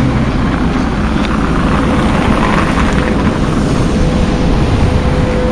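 NSB Class 70 (BM70) electric multiple unit rolling slowly past at close range: a steady rumble from the wheels and running gear with a steady hum running through it, growing stronger in the second half.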